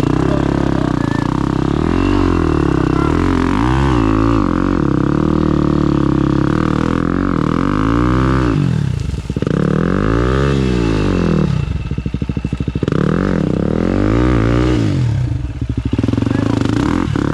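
Enduro motorcycle engine revved hard several times, its pitch rising and falling with brief throttle cuts between the surges.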